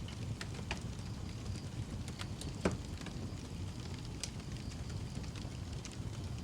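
Wood fire crackling in a fireplace: a steady low rumble of burning with scattered sharp pops, the loudest a little under three seconds in.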